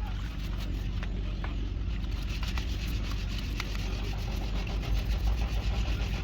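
Engine idling steadily with a low, even hum and a few faint light clicks over it.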